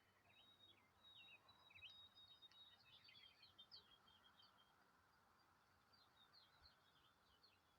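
Faint chirping and twittering of small songbirds: many short, high notes and brief trills, busiest in the first half and thinning out later.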